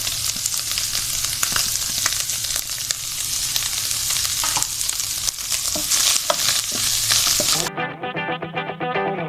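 Chicken and carrots sizzling in hot oil in a karahi as they are stir-fried, with frequent sharp clicks and scrapes of the spatula against the pan. About three-quarters of the way through, the sizzling cuts off abruptly and background music takes over.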